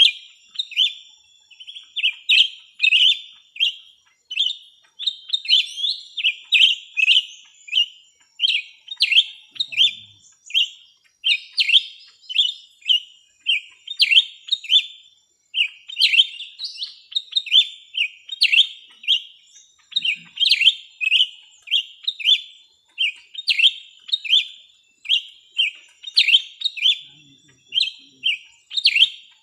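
Small birds chirping: a fast, unbroken run of short, sharp chirps, about two a second, with no pause.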